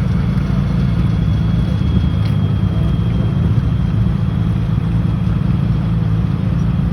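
A car engine running steadily, its sound sitting mostly low.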